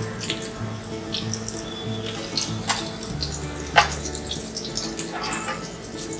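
Fish kebabs sizzling as they shallow-fry in oil in a nonstick pan, with a metal spatula clicking and scraping against the pan as it slides under them; the sharpest clack comes just under four seconds in.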